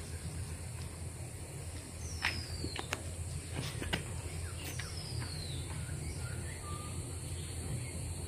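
Outdoor ambience: two falling whistled bird calls, about 2 and 5 seconds in, and a few light clicks, over a steady high-pitched hum and a low rumble.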